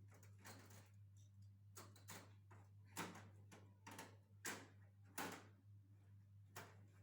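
Faint, scattered light clicks and knocks, a handful over several seconds, over a steady low hum.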